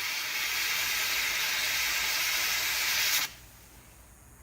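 Firework fountain spraying sparks with a steady hiss that cuts off abruptly about three seconds in.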